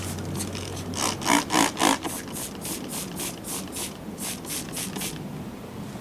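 Quick back-and-forth rubbing strokes on a wooden fence, about four a second, loudest over the first second and stopping about five seconds in. This is cleaning up the spot the woodpecker damaged.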